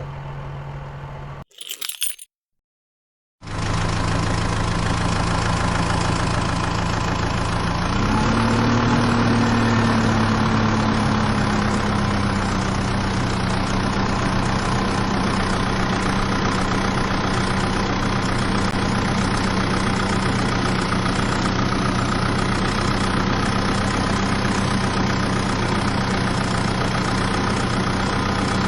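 Tractor engine idling steadily. It revs up about eight seconds in, then settles back to a steady run.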